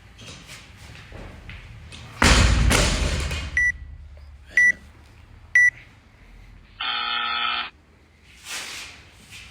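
Workout interval timer counting down the end of the time cap: three short high beeps a second apart, then one longer, lower buzz. Just before the beeps, a loud crash with a rush of noise that fades over about a second.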